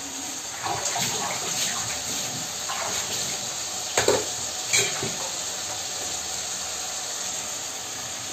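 Chopped onions and green peas sizzling steadily in hot oil in a wok, with stirring scrapes early on and two sharp knocks of a steel spoon against the pan about four and five seconds in.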